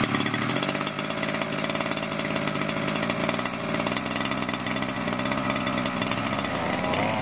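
Zenoah 26cc single-cylinder two-stroke engine running at a steady fast idle just after being pull-started, during its break-in. Its pitch wavers slightly near the end.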